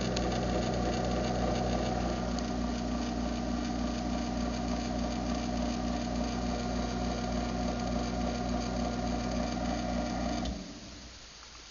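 Craftsman half-horsepower garage door opener's motor running steadily through a travel cycle, then stopping about ten and a half seconds in. It is not very loud.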